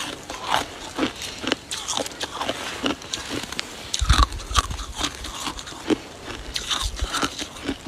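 Close-up crunching as ice and snow are bitten and chewed, in many sharp, irregular crunches. A low rumble joins the crunching from about halfway.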